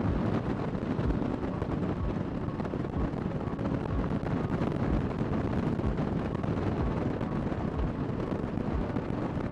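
Kawasaki Vulcan 1600 Nomad's V-twin engine running steadily while cruising, with wind rushing over the microphone.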